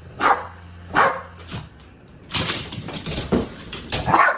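A dog barking, with a few short barks about half a second to a second apart near the start, then more sound later on.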